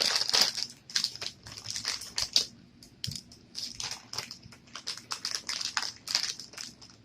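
Plastic Jolly Rancher Gummies bag crinkling and rustling in irregular bursts as it is handled and opened.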